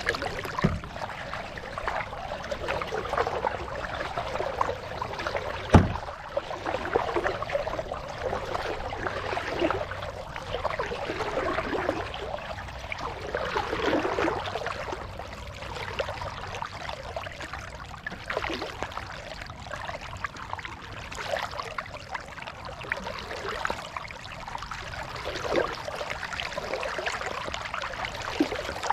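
Kayak paddle strokes: water splashing and trickling off the blade in swells every few seconds. A single sharp knock comes about six seconds in.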